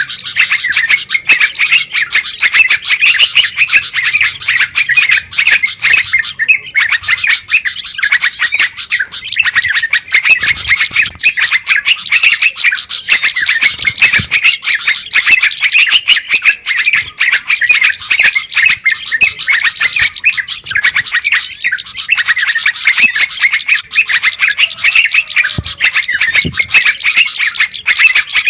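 Dense chorus of many small songbirds chirping and twittering over one another without pause, an agitated, noisy bird-lure recording of the kind played to draw in wild bulbuls and tailorbirds.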